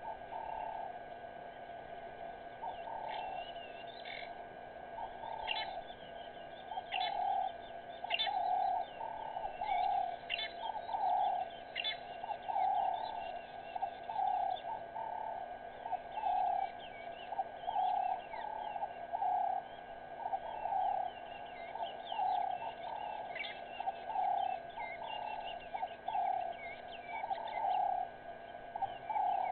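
Birds calling together: one bird repeats a low, cooing note about once a second, while smaller birds add quick, high chirps over the top.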